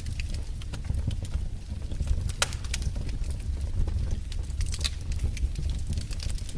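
Wood fire burning in a fireplace: a low steady rumble of the flames with irregular crackles and pops, one louder pop about two and a half seconds in.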